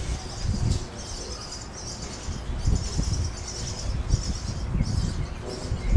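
Small birds chirping in rapid, repeated high twittering trills, over a low uneven rumble with occasional dull thumps.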